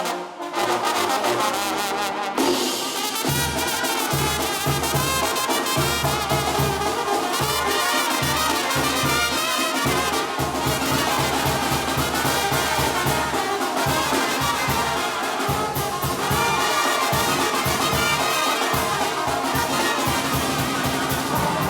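A Mexican banda brass band playing live, an instrumental passage with trumpets and trombones. A steady low bass beat comes in about three seconds in.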